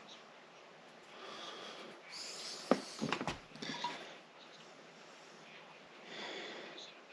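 Close handling noises at a workbench: a sharp click about midway, followed by a brief clatter, with soft breathing sounds before and after.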